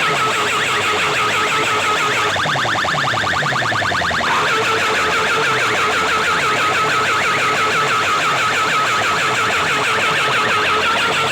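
Loud electronic siren- and alarm-like tones from a DJ competition sound system, with a fast buzzing pulse about two seconds in that lasts roughly two seconds.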